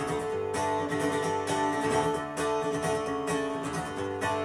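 Acoustic guitar strummed in a steady rhythm, playing the introduction of a song before the vocals come in.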